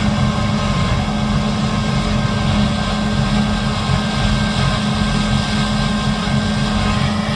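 Large diesel harvest machinery running steadily under load, a constant engine drone with a strong low hum and higher whining tones over a rushing noise.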